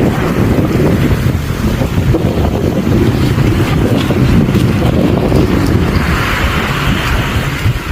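Strong wind buffeting the microphone in a steady low rumble, with waves washing in as a rising hiss about six seconds in.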